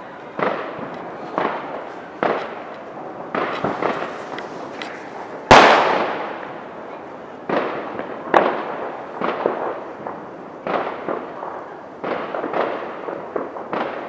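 Fireworks going off one after another: about a dozen separate bangs, each trailing off, with the loudest, sharpest crack about five and a half seconds in.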